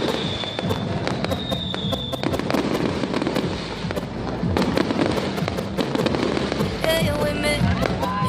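Fireworks going off in a dense run of bangs and crackling pops, with a thin high whistle through the first two seconds. Music with singing comes in near the end.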